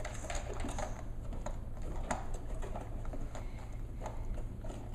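Irregular light clicks, taps and scrapes of a plastic toy fire truck and its cardboard box being handled as the truck is packed back into the box.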